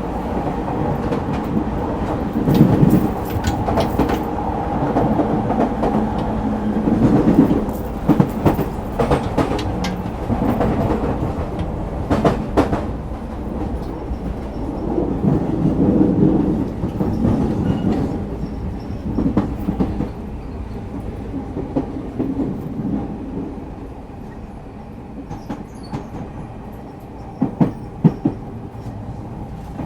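JR East 209 series electric train running on the rails, a steady motor hum under repeated clicks and clacks of the wheels over rail joints. It grows quieter in the second half.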